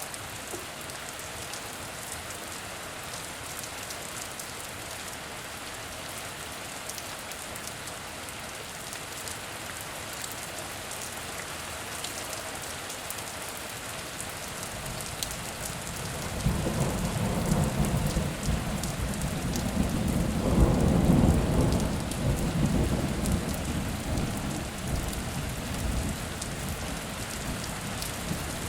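Steady heavy rain falling, with a long low roll of thunder that builds about halfway through, peaks a few seconds later and slowly fades.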